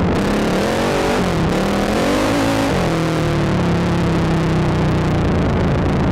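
Sport ATV engine heard from the rider's helmet, revving up and easing off twice, then holding a steady pull under throttle.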